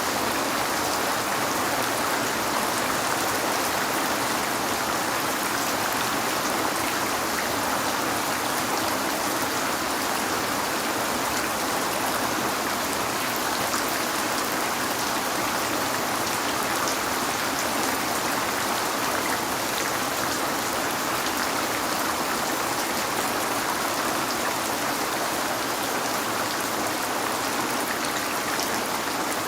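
Steady heavy rain falling, with fine drops pattering on a window: an even, unbroken rush of water.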